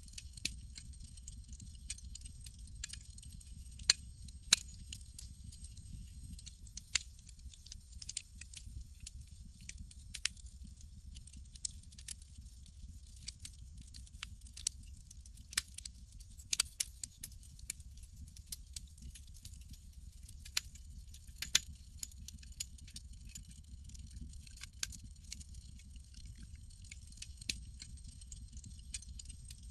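Campfire crackling: irregular sharp pops and snaps, a few much louder, over a low steady rumble and a faint high hiss.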